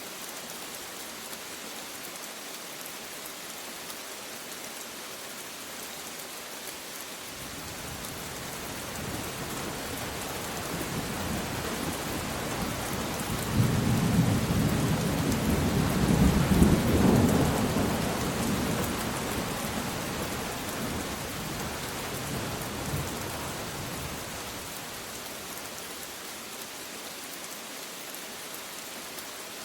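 Steady rain falling, with a long roll of thunder that builds about a quarter of the way in, is loudest near the middle and rumbles away over the next several seconds.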